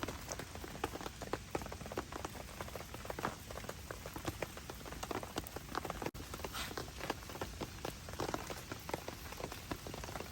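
Heavy rain falling steadily, with many separate drops striking a surface in quick, irregular taps over a constant hiss.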